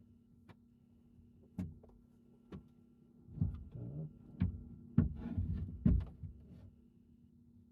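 Gear being handled and set down in a small enclosed space: scattered clicks and knocks, then a busier stretch of clatter and rustling with several louder knocks between about three and six and a half seconds in.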